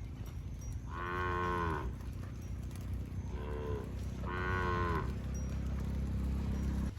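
A cow mooing three times, the middle call shorter and fainter, over a low steady rumble that cuts off abruptly near the end.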